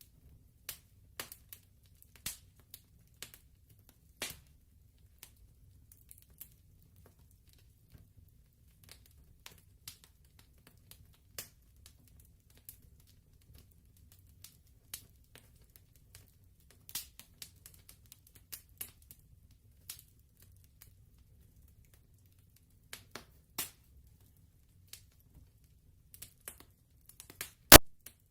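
Wood fire crackling: irregular sharp pops and snaps over a faint low rumble, with one loud pop near the end.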